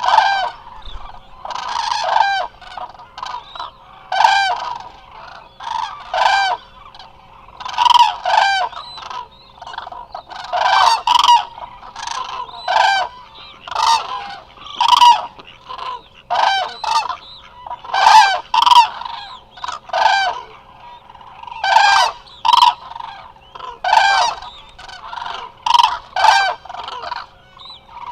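A large flock of Eurasian cranes calling: loud trumpeting calls from many birds, overlapping and coming in bursts every second or two.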